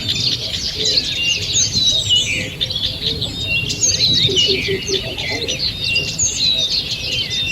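Morning chorus of many songbirds singing and calling at once, quick overlapping chirps and trills that never let up. A run of short, evenly spaced low notes comes in about four seconds in.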